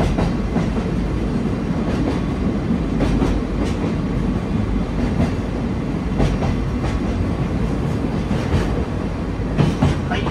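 The Sagano Romantic Train's open-air carriage running along the track: a steady low rumble of wheels on rail, with irregular clacks as the wheels pass rail joints.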